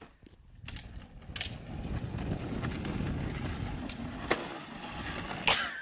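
Wheels of a small pedal tractor rolling over pavement, a rough rumble that builds up about a second in and holds steady, with a few clicks and a sharp scrape near the end.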